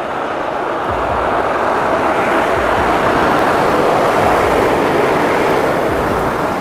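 Steady rushing noise of a heavy vehicle on the move, building gradually over the first few seconds.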